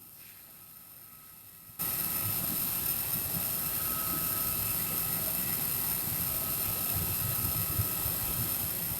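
Aircraft jet engine running steadily: a loud rumbling roar with a high turbine whine, starting abruptly about two seconds in after a faint hiss.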